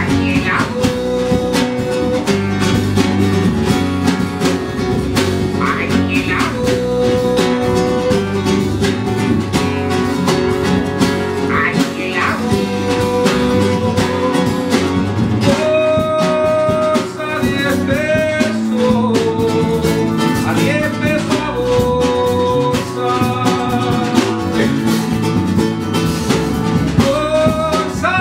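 Live band playing an instrumental passage, with guitar and melodic lead lines over the rhythm section, recorded on a phone's microphone.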